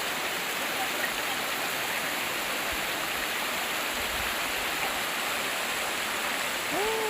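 Steady rush of a valley stream flowing over rocks. Near the end there is a short high call that rises and falls.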